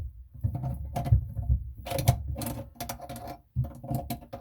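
A quick, irregular series of knocks, clicks and rattles from hands working on the faucet's supply-line connections under a bathroom sink.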